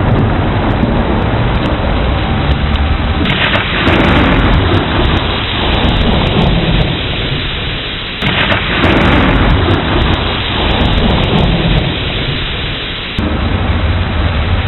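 Steady heavy rain with deep rolling thunder rumbling under it. The storm sound changes abruptly about every five seconds.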